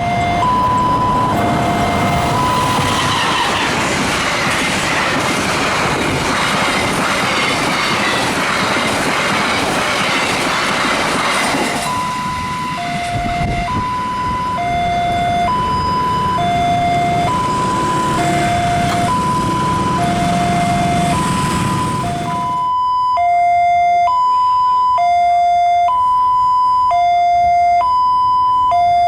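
Two-tone electronic warning of a railway level crossing, alternating between a lower and a higher tone about once a second. For most of the time a passing train's loud rail and wheel noise runs under it; the noise stops abruptly near the end, leaving only the crossing alarm.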